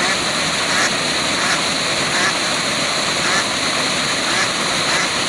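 Waterfall's steady rush of falling water, with short sounds, possibly bird calls, standing out above it about once a second.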